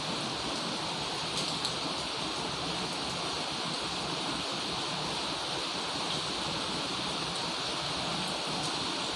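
Heavy rain falling in a steady downpour, with a couple of sharper drop hits about a second and a half in.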